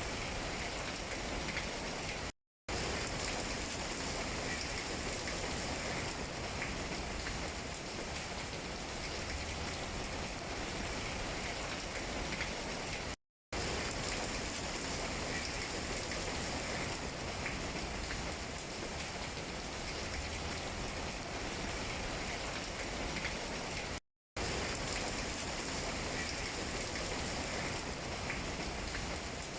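Steady rain pattering on tree leaves, an even hiss with soft scattered drop ticks. It cuts to silence briefly three times, about eleven seconds apart.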